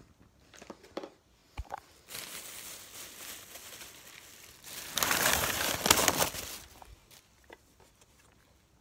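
Plastic bag or packaging crinkling and rustling as items are handled, with a few light clicks in the first two seconds and the loudest rustle from about five to six and a half seconds in.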